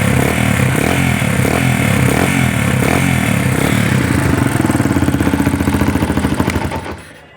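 Suzuki DR200 trail bike's single-cylinder four-stroke engine running steadily, then cutting off near the end.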